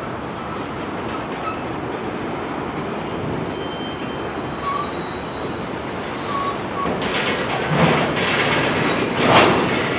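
Freight cars rolling on the yard tracks: a steady rumble of steel wheels on rail with a few brief wheel squeals. From about seven seconds in it grows louder, with sharp knocks about a second and a half apart.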